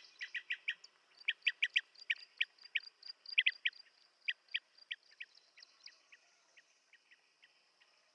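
Blue-tailed bee-eater calling: a fast series of short, clipped notes in quick clusters, growing fainter and more widely spaced in the last few seconds.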